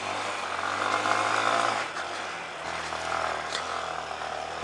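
Honda CRF230L dual sport's air-cooled single-cylinder four-stroke engine running at low revs, a little louder for the first two seconds, then settling lower.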